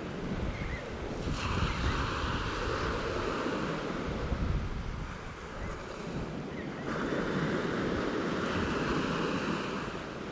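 Sea surf washing onto a beach, two waves breaking and rushing in: one about a second and a half in, the next about seven seconds in. Wind rumbles on the microphone underneath.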